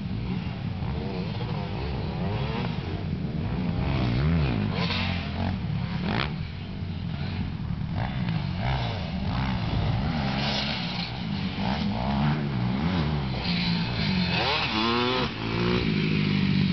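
Several motocross bikes running on a dirt track, their engines revving up and down and overlapping, with one climbing sharply in pitch near the end.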